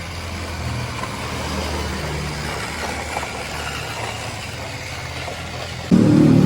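A steady low engine-like hum under a noisy background. About six seconds in, a much louder sound made of several held tones cuts in suddenly.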